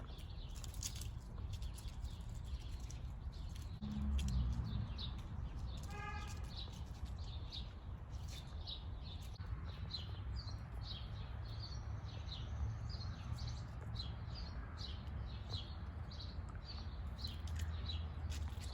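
Small birds chirping over and over, with a steady low rumble beneath. About six seconds in there is one short, higher tonal call.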